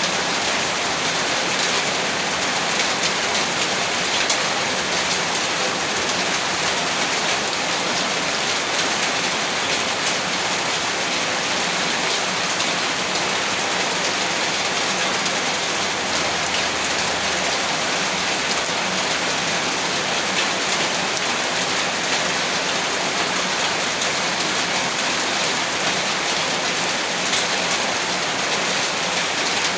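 Heavy rain pouring steadily, a dense even hiss with many fine drop impacts on surfaces.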